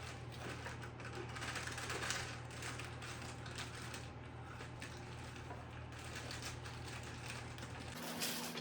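Light clicking and rattling of baking supplies being handled on a table, over a steady low hum. The hum changes abruptly near the end.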